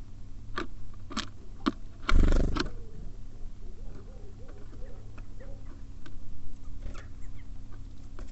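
Small birds such as tits and sparrows at a bird feeder: a few sharp taps of pecking and hopping, then a louder knock a little after two seconds as a bird lands or strikes the feeder, and more taps later.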